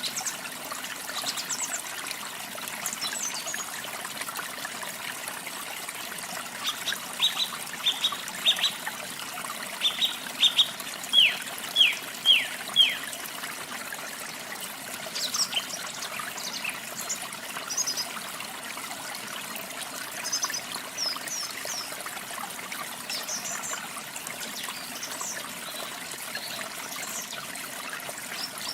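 Running water with steady splashing and trickling, under songbirds calling. Halfway through, one bird gives a loud run of quick notes, each sweeping down in pitch, and other high chirps come and go.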